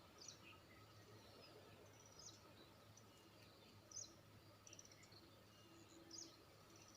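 Faint birds chirping outdoors, a handful of short high calls spread over the seconds, over a low steady background hum.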